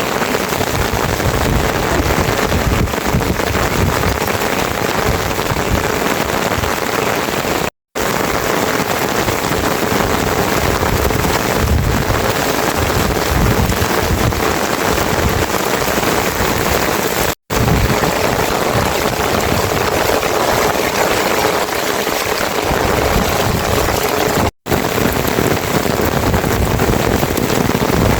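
Steady heavy rain, a loud even rushing hiss, cut by three brief drops to silence.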